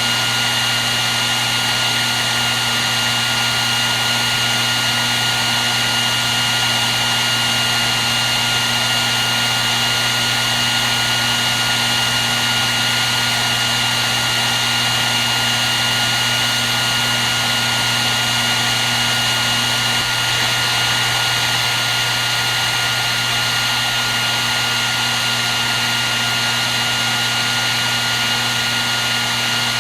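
Hair dryer running continuously at a constant setting, a steady rush of air with a motor hum and a thin high whine.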